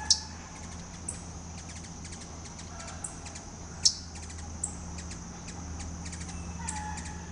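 Sharp, short bird chip notes, a few scattered through, the loudest just after the start and about four seconds in, over a steady high-pitched hum.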